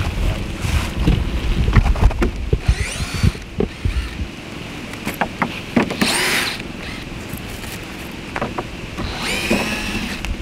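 Cordless drill running in three short bursts, the middle one the loudest, as screws are driven or backed out of the wooden bed frame. Knocks and clatter of the boards being handled come between the bursts, with wind rumbling on the microphone for the first few seconds.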